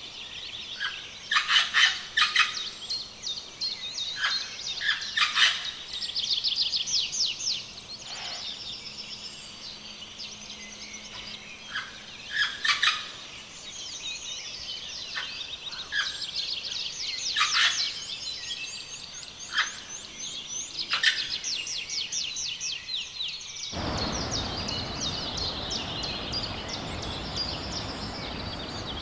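Several rainforest birds calling, with fast trills and sharp, clipped call notes overlapping. About 24 seconds in, a steady rushing noise starts abruptly under the birdsong.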